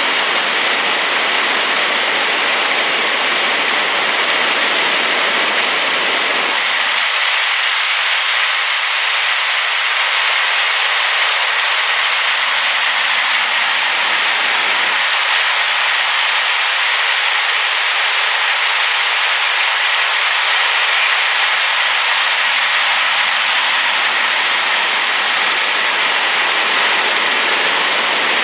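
A rain-swollen waterfall pouring, a steady, unbroken rushing noise strongest in the upper range.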